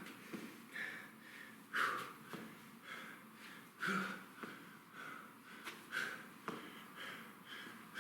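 A man breathing hard during an exercise set, with a sharp, audible exhale about every two seconds.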